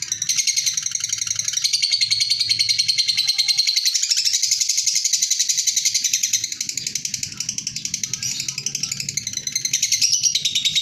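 A lovebird giving its long 'ngekek' chatter: a rapid, unbroken stream of high, shrill chirping notes, many to the second.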